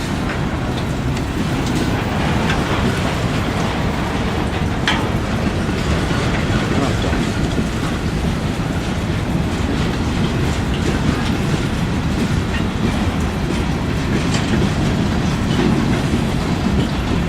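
A train rolling along the track: a steady, loud rumble of wheels on rail, with scattered clicks of the wheels over rail joints.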